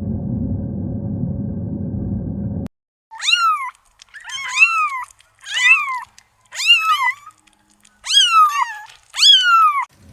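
A low steady rumble that cuts off abruptly, then a kitten meowing six times in a row, each meow rising then falling in pitch.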